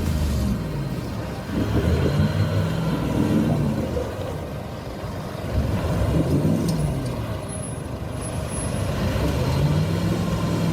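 Off-road vehicle engine revving up and down several times under throttle.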